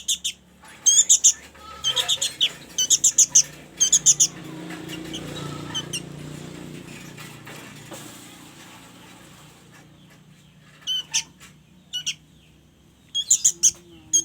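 Young sooty-headed bulbul (kutilang) giving rapid, shrill begging chirps in quick clusters while being hand-fed banana. The calls pause for several seconds midway, then start again near the end.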